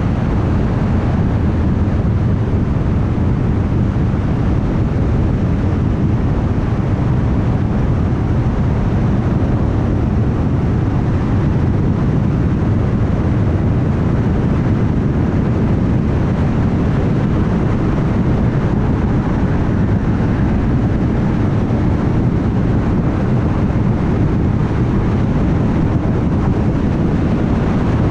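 Car cruising at highway speed: steady tyre and road noise with a low hum, heaviest in the low end and unchanging throughout.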